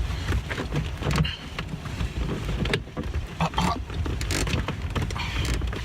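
Scattered plastic clicks and knocks from hands working a car's interior door panel loose around the door handle, over a steady low rumble.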